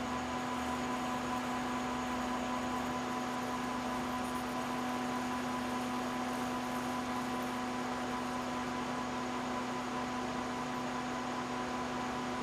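Metal lathe running steadily while a 3/4-inch drill cuts a hole in the part, an even hum with a clear tone and no chatter.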